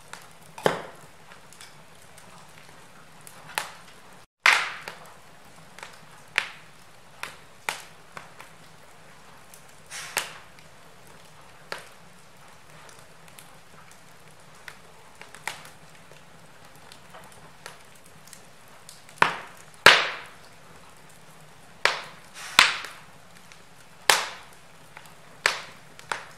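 Wood fire crackling in a fireplace: sharp, irregular snaps and pops over a faint steady background, with a run of louder pops in the second half. The sound cuts out for a split second about four seconds in.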